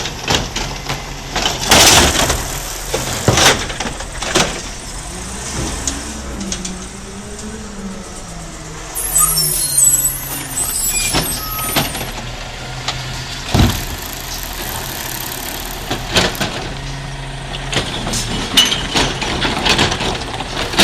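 Garbage truck running, with repeated sharp clanks and bangs throughout. Around the middle the engine note rises and falls and there is a burst of hissing air.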